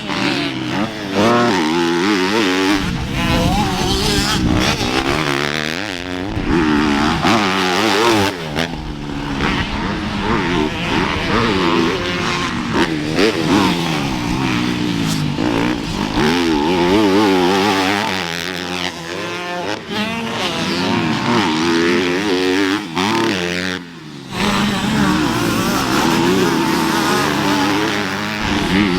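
250F four-stroke motocross bike engine being ridden hard, its pitch rising and falling over and over as the throttle is opened and shut through the gears. The engine note drops out briefly about eight seconds in and again near the end, when the throttle is chopped.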